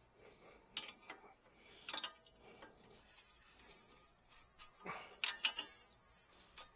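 Scattered clicks and clinks of hand work on a car, with a louder scraping rattle lasting most of a second near the end.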